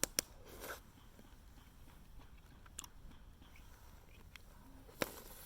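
A person chewing a mouthful of ajillo, with a few sharp clicks scattered through.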